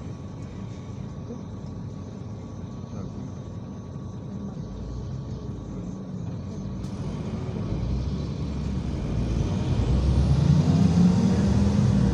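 IVECO Crossway 13M PRO city bus running at low engine speed, then pulling away: from about eight seconds in the engine note rises and grows louder as the bus accelerates.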